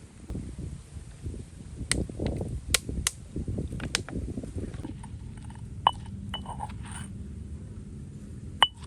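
Kitchenware being handled: about six sharp clinks, a few with a brief ringing tone, over low scraping and rustling.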